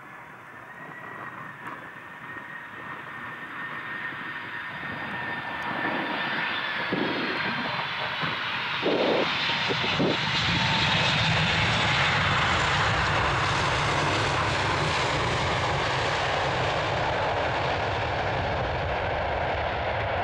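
Boeing 747-400 freighter's four jet engines flying low past: a high engine whine that slides slightly down in pitch, under jet noise that swells to a steady loud roar about halfway through. A few short low thumps sound as it comes closest.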